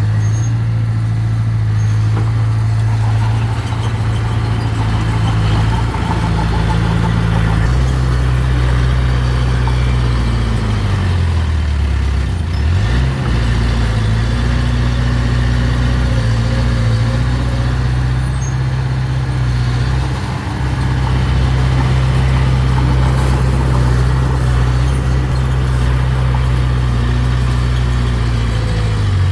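Mini bulldozer's diesel engine running steadily under work. Its note drops about a third of the way in and rises back a few seconds later as the load or throttle changes.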